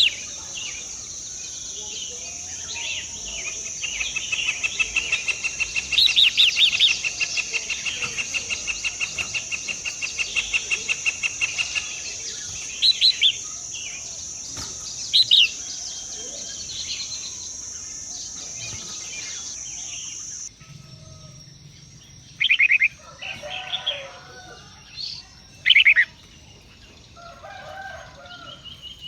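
Birds chirping and calling in short, repeated bursts over a steady high-pitched insect drone. About two-thirds through, the drone cuts off abruptly and the chirps carry on against a quieter background.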